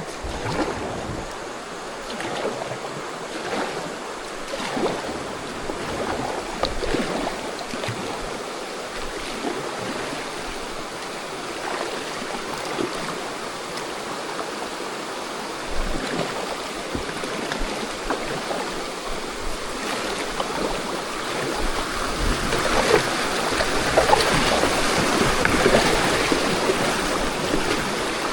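Mountain creek water rushing over shoals, with scattered splashes; the rushing grows louder in the last few seconds.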